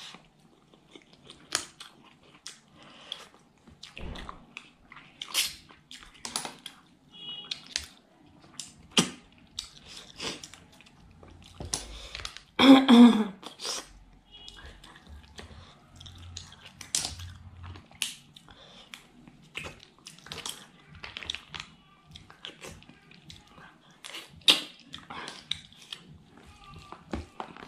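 Close-up chewing of butter clams and rice eaten by hand, with frequent sharp wet clicks and smacks. One longer, louder sound comes about halfway through.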